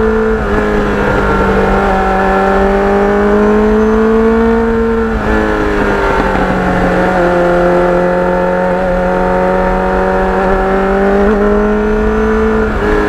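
Kawasaki Ninja motorcycle engine running under way at a steady cruising speed. Its pitch drops a little about five seconds in and rises again near the end.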